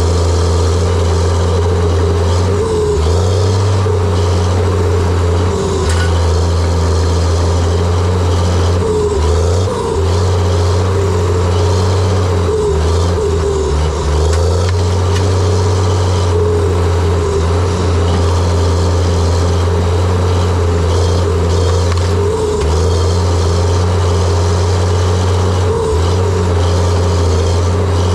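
John Deere 700J-II crawler dozer's diesel engine running hard and steadily, its low drone dipping and changing pitch several times as the load changes, with a wavering higher whine running over it.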